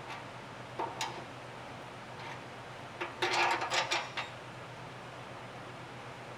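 Workshop handling noises: a single knock about a second in, then about a second of metallic clinking and clattering near the middle, over a steady low hum.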